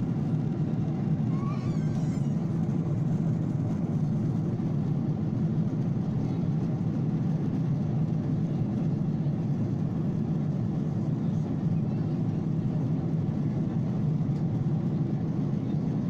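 Steady drone of an airliner in flight heard inside the cabin: engine and airflow noise, low and even throughout.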